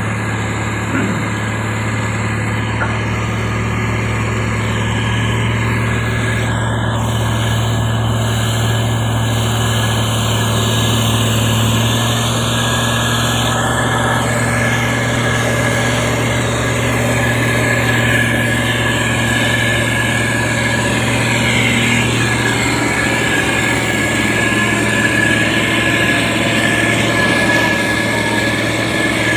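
Diesel engine of a SANY STG190C-8S motor grader running steadily, a constant low drone with a steady high whine above it.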